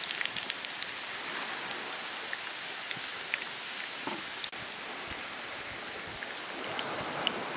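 Panko-crumbed squid rings sizzling in shallow olive oil in a frying pan: a steady hiss with scattered small crackling pops.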